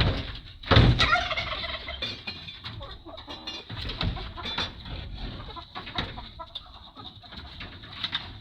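Chickens clucking, with a loud knock at the start and another about a second in, and a few lighter knocks later.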